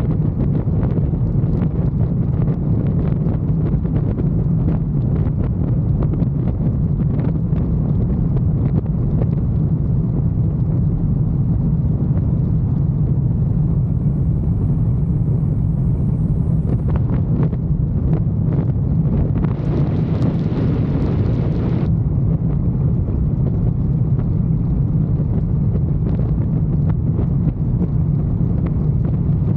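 Motorcycle engine running steadily while riding, with wind noise on the microphone. A brief hiss comes in about twenty seconds in and stops about two seconds later.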